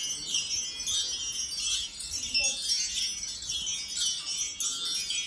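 Cartoon sound effect of wind-chime-like tinkling: many high, bell-like notes ringing over one another in a continuous shimmer.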